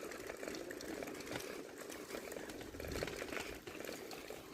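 Faint running water, a steady babble of many small splashes.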